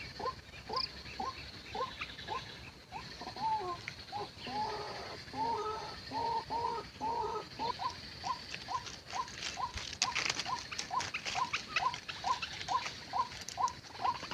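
White-breasted waterhen calling: a steady series of short rising notes, about two a second. A second, more tangled bout of calling overlaps them for a few seconds in the middle, and a fast rattle of clicks joins near the end.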